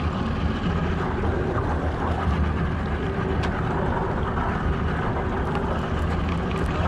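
Fishing boat's engine idling, a steady low hum under a haze of wind and water noise.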